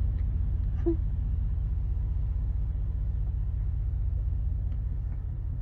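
Vehicle engine running, heard from inside the cabin as a steady low rumble.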